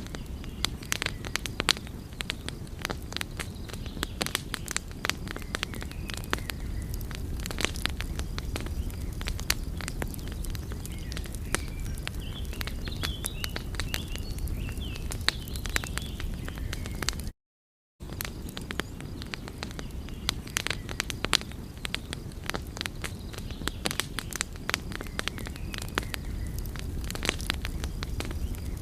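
Wood fire crackling with frequent sharp pops over a steady low rush of burning. The sound drops out completely for under a second a little past halfway, then carries on as before.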